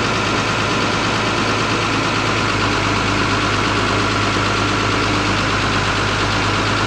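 A self-built bandsaw running steadily while sawing a log, a constant mechanical drone with a steady whine over it.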